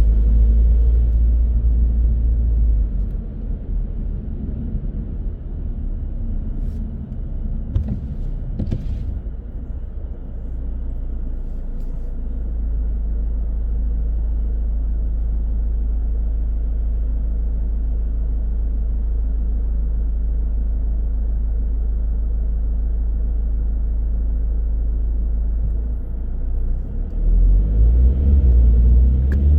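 Car driving in traffic: a steady low rumble of engine and road noise, easing for a while and then holding even. Near the end the engine note rises as the car accelerates.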